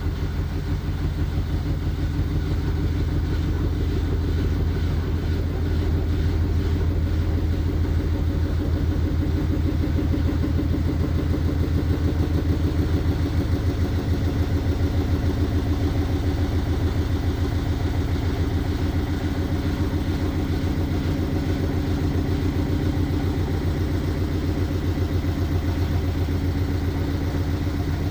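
LG washing machine running steadily through its cycle with a low motor hum and a fast, even pulsing that goes on without a break.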